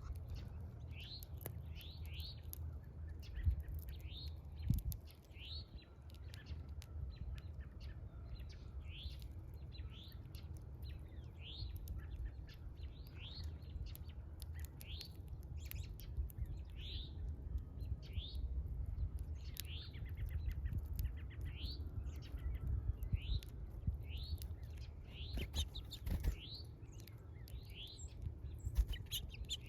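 Small birds chirping while feeding: short rising chirps repeated slightly more than once a second. Under them runs a low rumble, with scattered sharp clicks.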